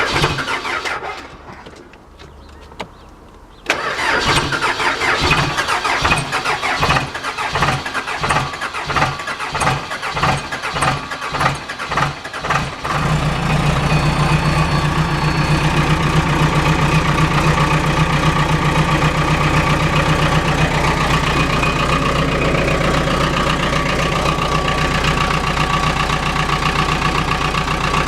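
Case 570 MXT's 3.9-litre Cummins four-cylinder diesel being cranked cold by the starter, turning over in an even rhythmic chug for about nine seconds, then catching about thirteen seconds in and settling into a steady idle. A single click comes just before the cranking starts.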